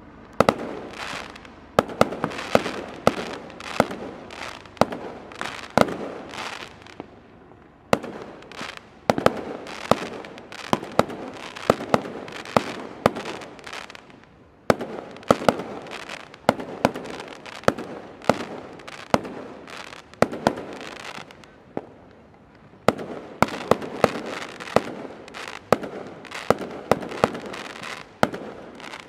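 Aerial fireworks going off in a steady barrage: many sharp bangs of bursting shells, close together, with crackling between them and a few brief lulls.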